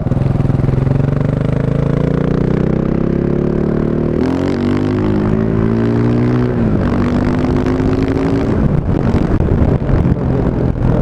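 KTM 690 Enduro's single-cylinder engine through an Akrapovic exhaust, accelerating and shifting up through the gears: the pitch climbs, drops at a shift about four seconds in, climbs again, drops at a second shift, and near the end the throttle is closed and the note falls away.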